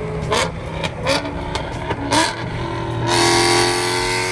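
Performance car engines revving in short, sharp throttle blips, then one car revving up and accelerating louder about three seconds in.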